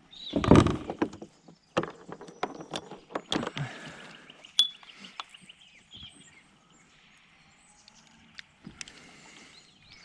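Knocks, clicks and scraping of gear being handled on a kayak, with a louder swishing sound just after the start and a quieter spell in the second half.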